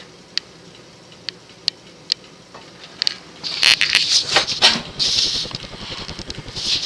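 Modern Fan Co. Industry ceiling fan with a GE stack motor running on high, choked with balloon strings. A few isolated ticks, then from about three and a half seconds in a loud, irregular rattling and rustling, which fits the balloon strings rubbing around inside the fan.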